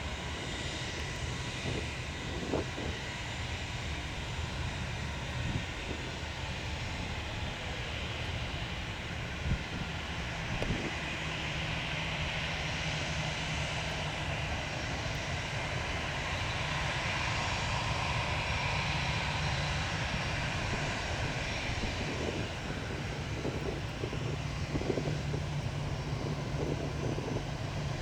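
Airliner's engines running, a steady rumble and hiss that swells through the middle and grows slightly louder toward the end.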